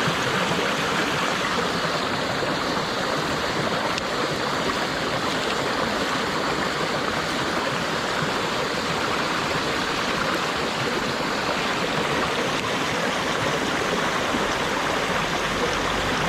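Mountain stream water rushing steadily over rocks, a constant even wash of sound.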